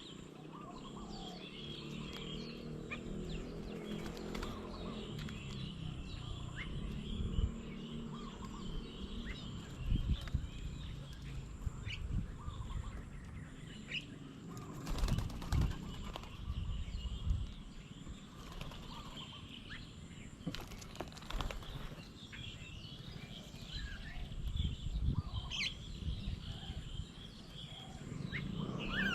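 Small birds chirping and calling around a garden bird table, with several brief wing flutters and thumps as birds fly in and out.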